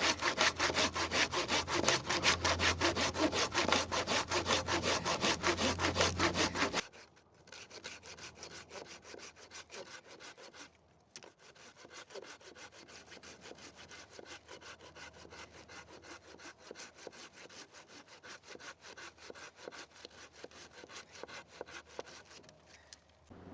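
Hand saw cutting through wood in rapid, even back-and-forth strokes. About seven seconds in it turns much quieter, and the sawing carries on faintly.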